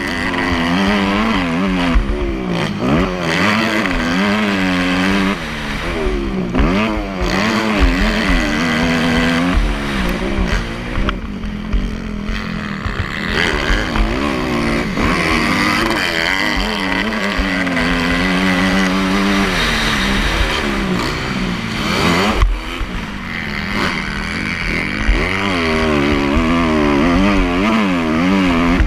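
Motocross bike engine revving up and backing off again and again, its pitch rising and falling every second or two as the rider accelerates and shifts while riding.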